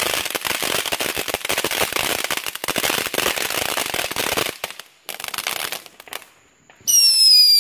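Consumer firework crackling: a dense rapid stream of small pops for about four and a half seconds, thinning out and dying away. Near the end a loud high whistle sounds for under a second, falling slightly in pitch.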